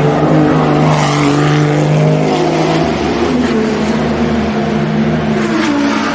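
Porsche 991.2 GT3 R race car's naturally aspirated flat-six running loud at a fairly steady note with small shifts in pitch, with a few short sharp cracks along the way.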